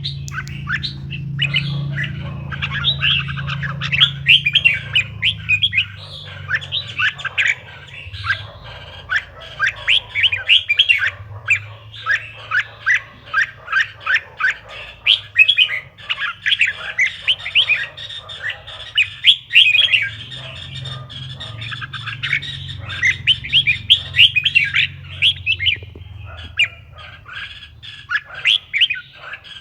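Red-whiskered bulbul song: a fast, continuous run of loud chirping and warbling phrases, the kind of song used to prompt other bulbuls to sing. A faint low hum lies beneath it.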